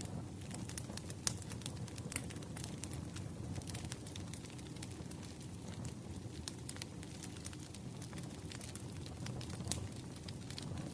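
Wood fire crackling: a steady low rumble of flames with irregular sharp pops and snaps of burning firewood, a few louder pops among them.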